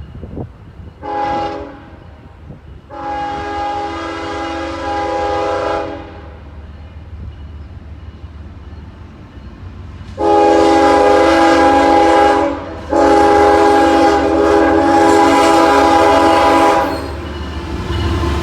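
Diesel locomotive's multi-chime air horn sounding a chord in four blasts: a short one, a longer one, then after a pause two long, louder blasts with a brief break between them. The low rumble of the train runs underneath.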